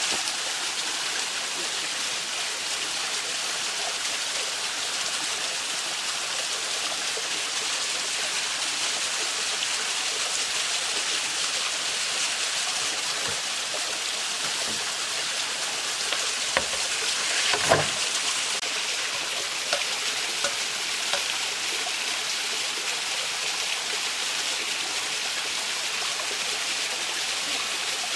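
Steady rush of a flowing mountain stream, with a few short sharp knocks past the middle.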